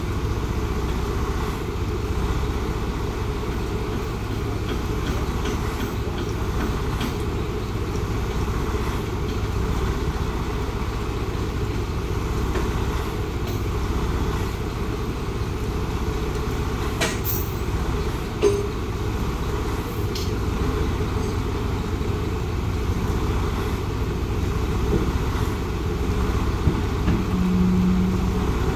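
Steady low rumble of an idling vehicle engine, with a few faint clicks around the middle and a short low hum near the end.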